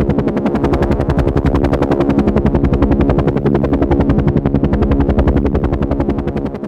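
Helicopter in flight: the rotor chops in a fast, even beat over a steady engine hum, easing slightly in loudness near the end.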